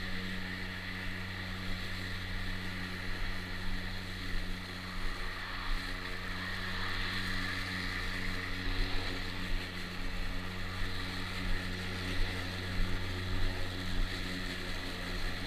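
EGO battery lawn mower running while mowing grass: a steady electric motor and blade hum with a higher whine, rising and dipping unevenly in loudness through the middle and later part.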